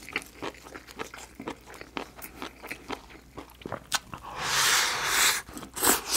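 Close-miked eating sounds: chewing and wet mouth clicks from a mouthful of food, with a louder rushing sound about a second long just past the middle as he eats rice from the bowl.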